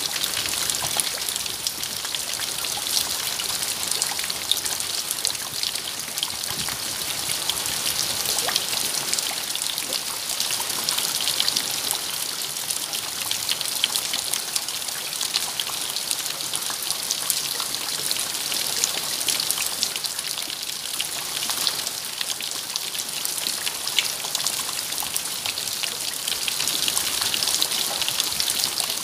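Steady rain falling, a continuous hiss with many individual drops striking close by as fine, sharp ticks.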